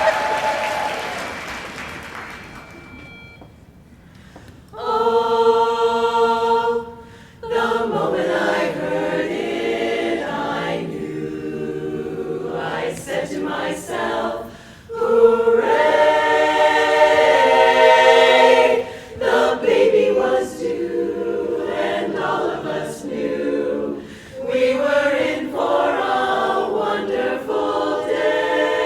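Applause dies away, and about five seconds in an a cappella barbershop chorus starts singing in close harmony, phrase by phrase with short breaks between.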